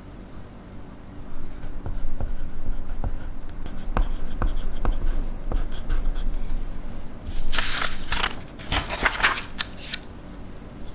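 Pencil writing on paper in small scratchy strokes. Near the end comes a couple of seconds of louder rubbing on the paper.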